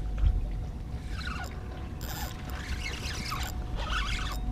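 Water splashing and pouring in short bursts over a steady low rumble, with a single thump just after the start.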